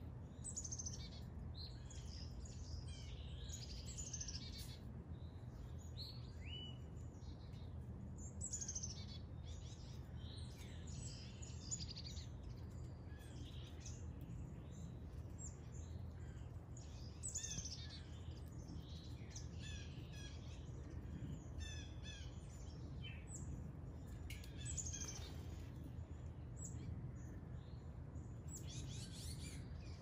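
Several small birds chirping and singing around backyard bird feeders, short calls and quick trills overlapping one another, over a steady low background rumble.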